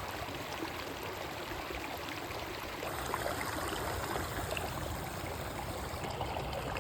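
River water flowing in a steady rush, a little louder from about three seconds in.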